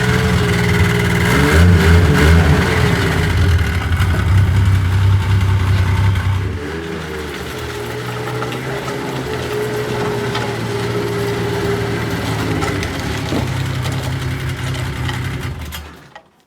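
Yamaha RS Viking Pro snowmobile's three-cylinder four-stroke engine running, louder at first, then settling to a lower, steady running about six seconds in, before stopping shortly before the end.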